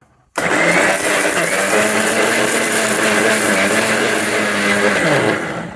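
Bosch MGM4334BIN 600 W mixer grinder running loud and steady as it dry-grinds a batch of roasted dal, chilli and salt podi finer, then switched off near the end, the motor's pitch falling as it spins down.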